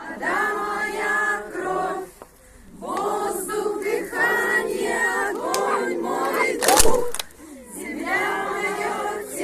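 A group of people singing together in unison in phrased lines, with a brief gap about two seconds in. A short, sharp noisy burst about seven seconds in is the loudest moment.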